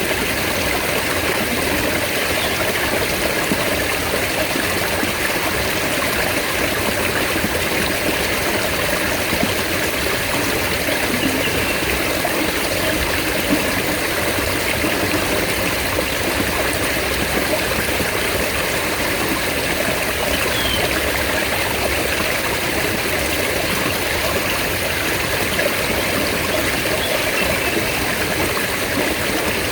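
Mountain stream water running and splashing over rocks, a steady rushing wash with no pauses.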